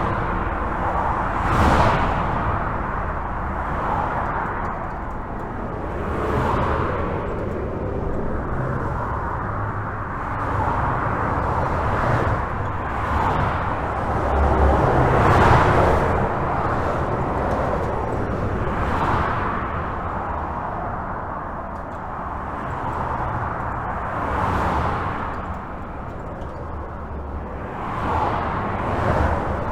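Steady highway traffic heard from under a bridge: a continuous low rumble of tyres and engines, with cars passing one after another every couple of seconds, each swelling and fading as a whoosh.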